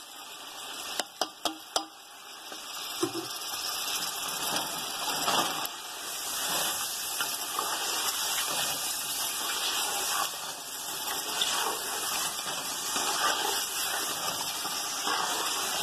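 Chicken pieces frying in masala and tomato purée in a metal pot, sizzling steadily while a wooden spatula stirs them. A few sharp knocks of the spatula against the pot come about a second in.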